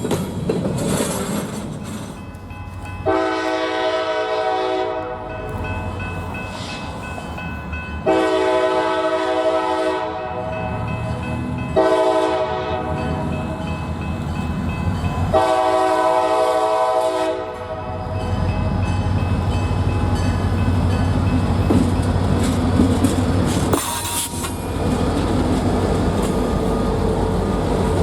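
Freight diesel locomotive's multi-chime air horn sounding the grade-crossing signal: long, long, short, long. The locomotive and train then roll past with a steady low rumble.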